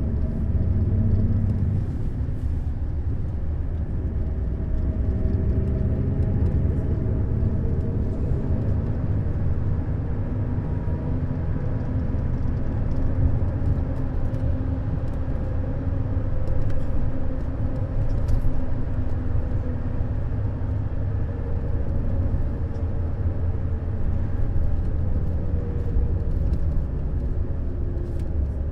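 Neoplan Skyliner N 1122/3C double-decker coach driving, a steady engine drone over a low rumble, the engine note drifting slowly and falling near the end.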